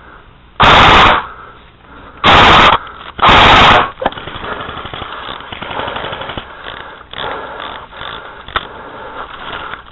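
Airsoft rifle fired in three short full-auto bursts close to the microphone, each about half a second and loud enough to clip, within the first four seconds. Quieter, uneven noise follows.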